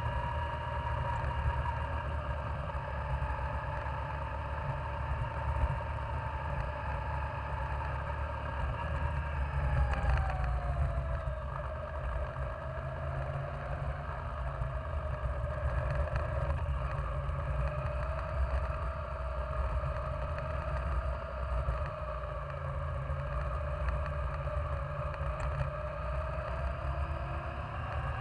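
Yamaha Virago 535's V-twin engine running while riding, with low wind rumble on the microphone. The engine's pitch falls about ten seconds in, holds, and climbs again near the end.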